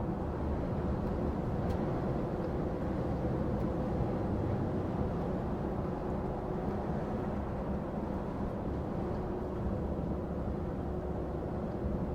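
Steady engine drone and road noise heard inside a lorry's cab while driving along, with a faint constant hum over it.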